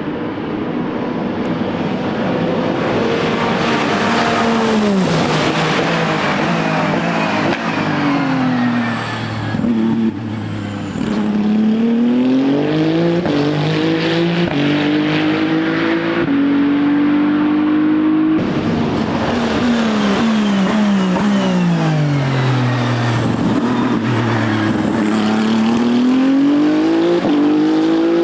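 Ferrari 499P hypercar's twin-turbo 120° V6 hybrid powertrain slowing for a corner with stepped downshifts, then accelerating away through stepped upshifts. The pattern repeats a second time after an abrupt change about two-thirds of the way in.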